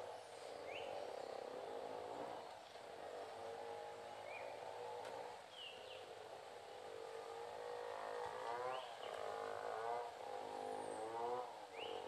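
Short, high bird chirps, each a quick rising note, heard about five times, over a continuous low drone whose pitch wavers.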